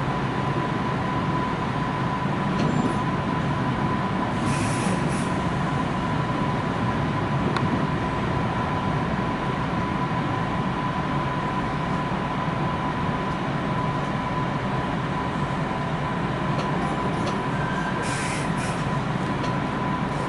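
Kintetsu commuter train car running, heard from inside the cabin: a steady rumble with a constant whine, and two brief hisses, one about four seconds in and one near the end.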